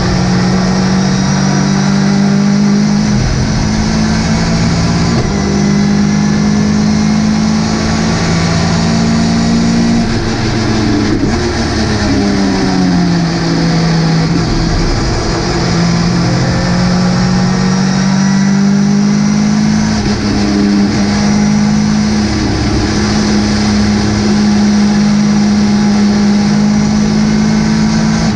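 Ginetta G40 race car engine running hard at high revs, its note stepping with gear changes. Near the middle it drops away through a downshift and then climbs back up under acceleration.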